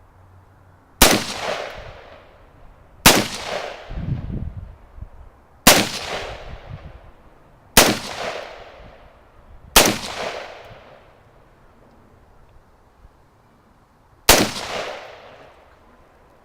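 AR-15 rifle firing six single shots, about two seconds apart with a longer pause before the last, each followed by a fading echo.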